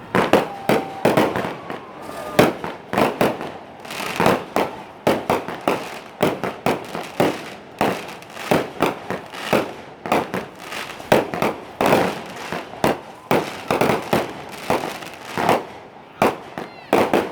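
Fireworks going off in quick succession: a dense, irregular string of sharp bangs and crackles, several a second.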